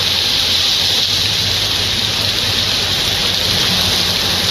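Heavy rain pouring down steadily, a dense even hiss, with a low steady hum underneath.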